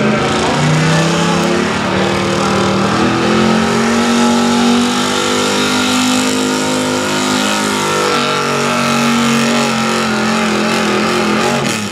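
Pulling truck's engine at full throttle during a truck pull, rising in pitch over the first couple of seconds and then holding at high revs. It cuts back sharply just before the end, as the pull ends.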